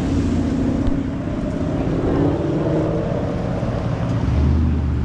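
Car engine and road noise while driving, with the engine pitch rising and falling a little.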